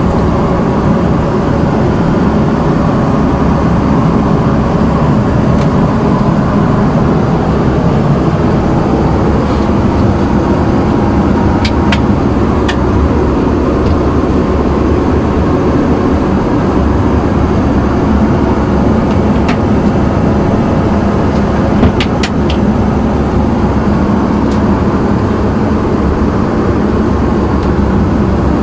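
Steady in-flight cabin noise of an Airbus A320: a constant low roar of engines and airflow, with a few short clicks.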